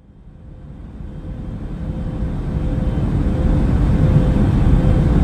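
Airliner cabin noise: a steady low rumble of engines and rushing air with a faint steady hum, fading in from nothing over the first few seconds.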